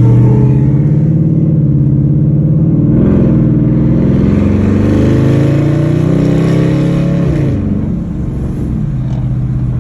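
Dodge Challenger SRT8's V8 engine under a hard acceleration pull. Its pitch climbs, with a step near three seconds, then falls sharply about seven and a half seconds in as the throttle is let off, leaving a lower steady drone.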